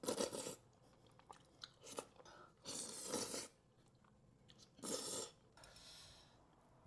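A person eating close to the microphone: several crunchy bites and chewing sounds in separate bursts, with short pauses between them.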